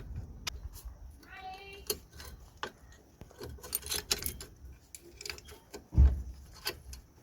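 Metallic clicks and clinks of drum brake parts and tools being handled while the rear brake shoes, springs and clips are fitted. There is a short squeak about a second and a half in, and a heavier thump about six seconds in.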